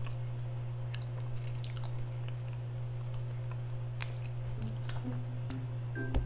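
Close-miked mukbang chewing of seafood, with scattered small wet mouth clicks over a steady low hum. A single thump comes near the end.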